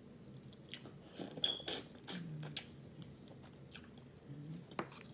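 Close-miked chewing and mouth sounds of someone eating seafood boil, with scattered sharp wet clicks and smacks. A couple of brief low hums come about two and four and a half seconds in.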